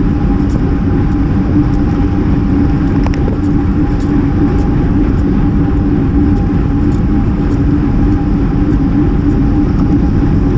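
Steady wind and road noise from a road bike riding at speed, rushing over the GoPro's microphone, with a constant hum from the tyres on the pavement and a few faint ticks.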